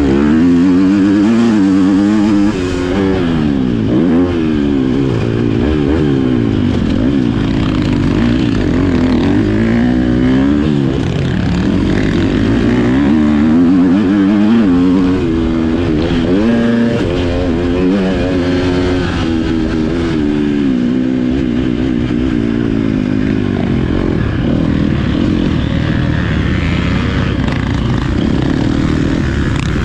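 Motocross bike engine revving up and down over and over, its pitch climbing and dropping every second or two as the rider works the throttle and gears around the track.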